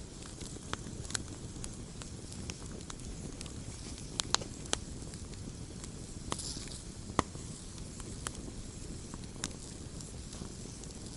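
Wood campfire crackling: a steady low rumble of flames with irregular sharp pops, the loudest about four and seven seconds in, and a brief hiss a little past six seconds in.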